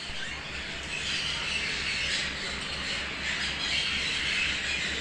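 Many small birds chattering and squawking at once, their calls overlapping in a continuous busy din, over a low steady hum.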